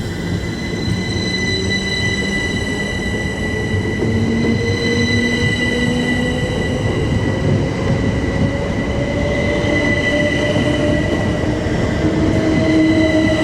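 A pair of Class 387 electric multiple units pulling away and accelerating. The traction motors whine in a tone that climbs slowly, over the rumble of the wheels and a steady high squeal, getting gradually louder.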